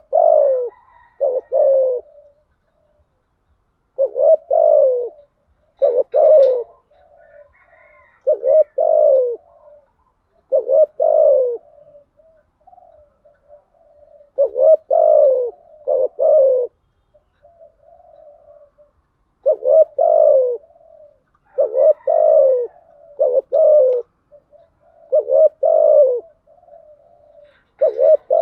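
Spotted dove cooing over and over: loud low coos, mostly in pairs, every two to three seconds, with softer humming notes between them. These are the calling and urging coos played as a decoy to draw wild doves in.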